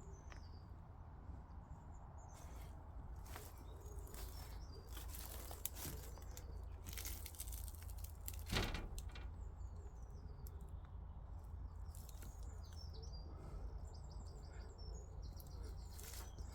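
Small birds chirping and singing, with a quick trill of repeated notes near the end. Close rustles and clicks sound through it, the loudest a knock about halfway through, over a low steady rumble.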